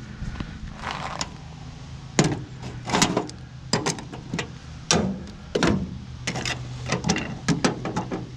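Irregular sharp metal clanks and knocks of scrap parts being handled and pried during a teardown for copper, over a steady low hum.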